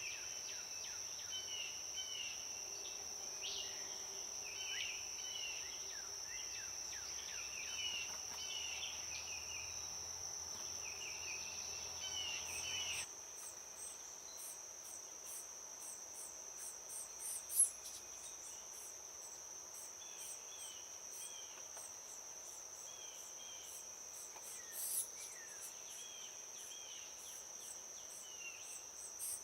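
Insects trilling steadily on one high note, with short chirps repeating over it. The background drops abruptly about thirteen seconds in.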